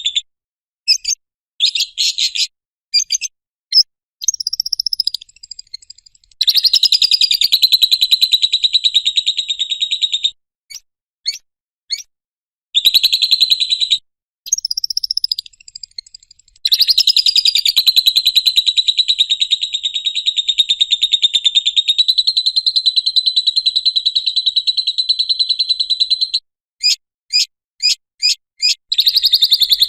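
Lovebird ngekek: long bouts of rapid, high-pitched chattering trills, the longest running about ten seconds, broken up by short sharp chirps and brief pauses.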